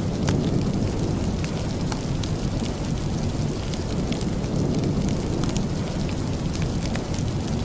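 Steady rain falling, a dense even hiss with a low rumble underneath, and a wood fireplace giving scattered sharp crackles.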